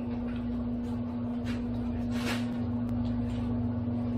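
A steady low hum runs throughout. Two short noises, a scrape or a hiss, come about one and a half and two and a quarter seconds in.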